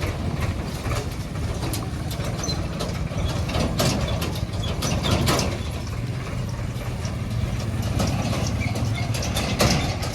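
Passenger train passing a level crossing: a steady low rumble with irregular clacks, a few louder ones standing out.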